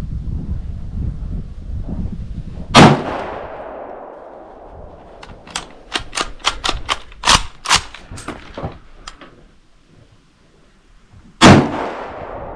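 Two shots from a Yugoslavian M95M straight-pull rifle in 8mm Mauser, about nine seconds apart, each with a long echoing tail. Between them comes a quick run of sharp metallic clicks and clinks.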